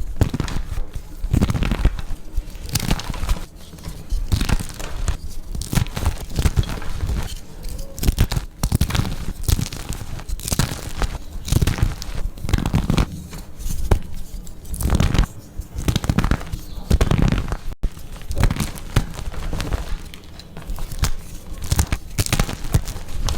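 Purple paste chalk crunching and crumbling close to the microphone: many gritty crunches in quick, uneven succession.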